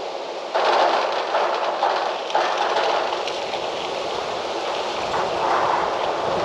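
Gusty wind rustling through trees, a steady rushing that swells suddenly about half a second in and again in further gusts.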